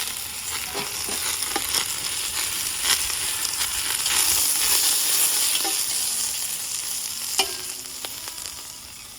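Spare ribs sizzling in a hot pan, with a dense hiss and a few sharp clicks, the loudest about three seconds in and near the end. The sizzle fades off over the last second.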